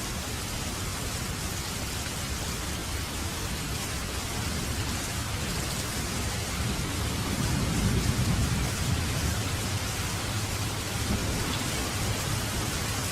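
Steady rain falling, with a low rumble of thunder swelling about halfway through and dying away.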